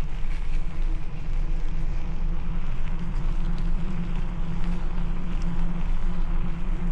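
Steady low rumble of wind buffeting the camera microphone on a moving bicycle.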